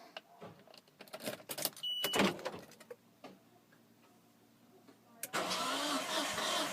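A few clunks and knocks and a short high beep, then about five seconds in the starter motor of a non-turbo Nissan Skyline R33 begins cranking the engine with a steady pulsing churn: a hard start after the car has sat for days.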